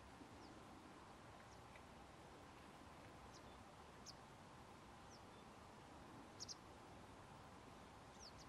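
Near silence: faint outdoor hiss with short, high call notes from a small bird every second or two, the loudest a quick double note about six and a half seconds in.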